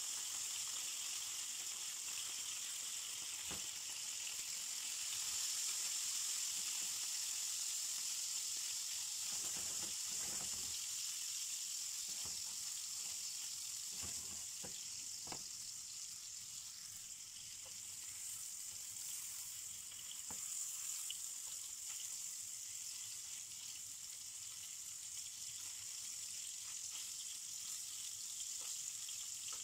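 Cubes of fresh salmon sizzling steadily in hot oil in a nonstick frying pan, with a few sharp clicks as tongs turn the pieces.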